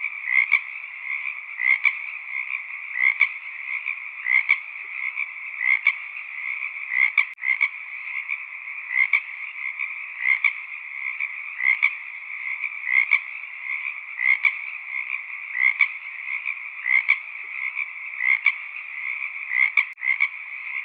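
Chorus of frogs calling continuously, with one louder call standing out about every second and a quarter.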